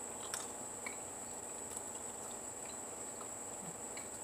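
Faint chewing of a chewy strip of marinated tofu bacon: a few soft, scattered mouth clicks over a steady high-pitched whine.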